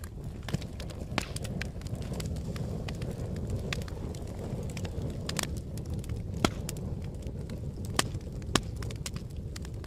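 Fire burning with a steady low rumble and irregular sharp crackling pops, a few louder snaps among them.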